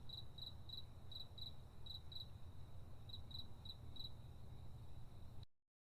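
An insect chirping in short, evenly spaced high-pitched chirps, about three a second with a brief pause midway, over a low steady rumble; the sound cuts off abruptly near the end.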